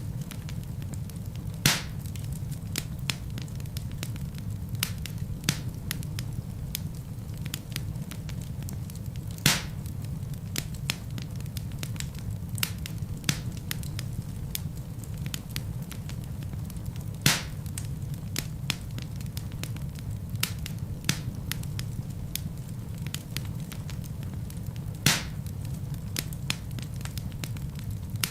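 Wood fire burning in a fireplace: a steady low rumble of flames with frequent small crackles and a sharper, louder pop about every eight seconds.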